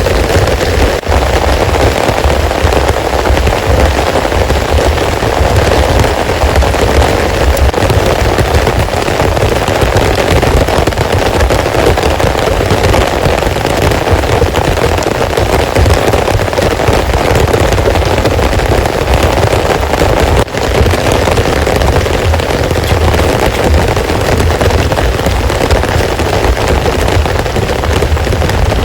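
Heavy rain falling, a dense, steady patter of drops, with a low rumble underneath.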